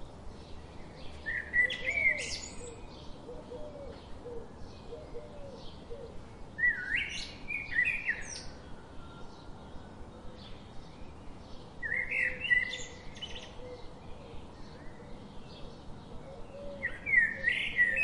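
A bird singing a short chirping phrase of rising and falling notes, repeated four times about five seconds apart, the last near the end.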